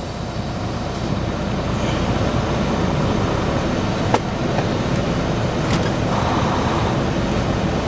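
Automatic truck wash's high-pressure water jets pounding the truck, heard from inside the cab as a steady muffled rushing that builds slightly about a second in, with a few sharp knocks.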